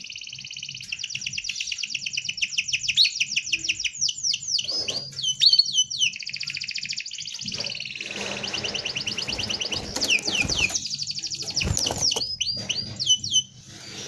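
Domestic canary singing a dense rolling song: long fast trills of rapidly repeated high notes, broken twice by runs of quick downward-sliding notes, stopping shortly before the end.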